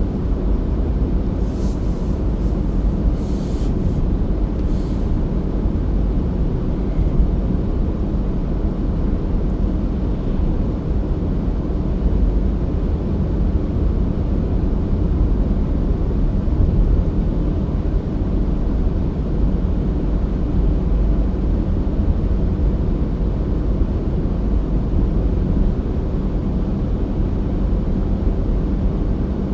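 Steady low rumble of a car driving: road and engine noise, with a few brief hissy crackles in the first few seconds.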